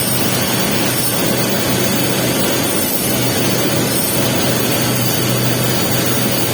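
Welding arc crackling and hissing steadily while a capping pass is laid on a pipe, over a steady low electrical hum.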